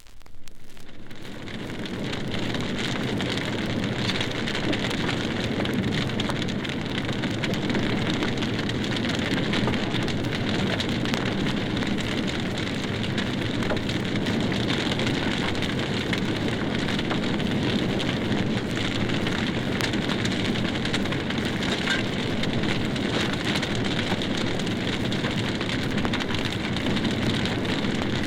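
A large fire burning with heavy, dense crackling over a steady rushing roar. It fades in over the first couple of seconds.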